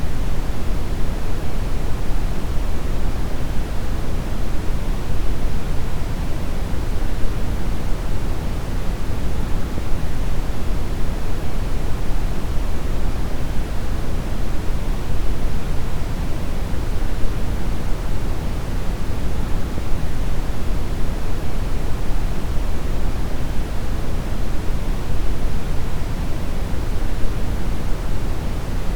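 Synthetic deep brown noise: a steady, even rumbling hiss weighted heavily toward the low end, with no tones or changes.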